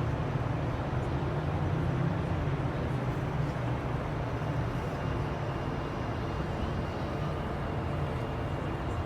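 Steady low mechanical rumble, with a faint thin whine entering about three seconds in.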